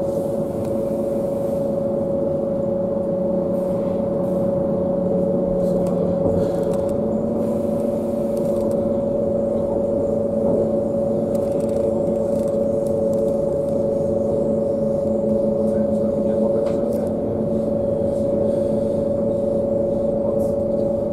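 Interior of a passenger train running at speed: a steady drone and rumble with a constant whining hum on top. A lower note in the drone rises a little about seven seconds in.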